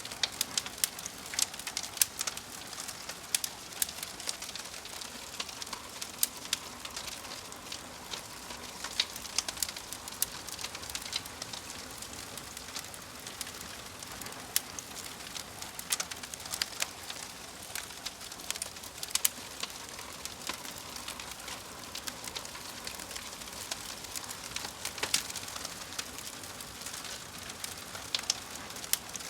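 Wood fire crackling: irregular sharp pops and snaps, several a second at times, over a steady soft hiss.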